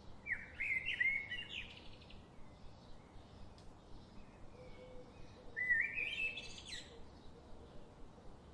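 A songbird sings twice, about five seconds apart. Each phrase is a quick run of notes stepping up in pitch and lasts about a second and a half, over faint chirps of other birds.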